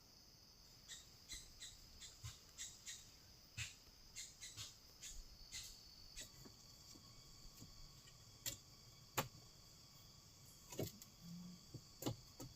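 Forest insects buzzing steadily at a high pitch, with a second, lower steady note joining about halfway through. Scattered sharp clicks and knocks sound over it at irregular intervals, the loudest a little past the middle.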